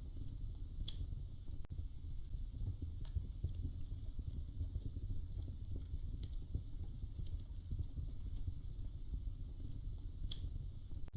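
Wood fire burning in a fireplace: a steady low rumble with a handful of sharp crackling pops spread through it.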